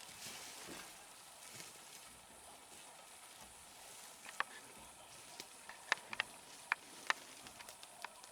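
Faint hiss, then about eight sharp clicks scattered through the second half.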